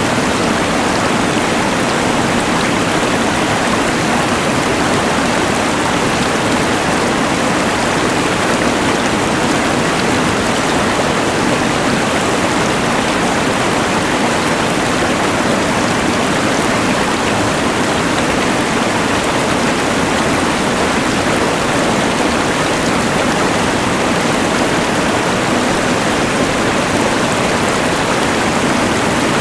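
Rushing mountain river layered with the steady hiss of a LectroFan white noise machine, an even, unbroken wash of noise.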